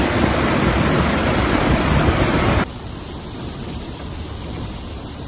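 Loud, steady rushing noise that cuts off abruptly about two and a half seconds in, leaving a quieter steady hiss.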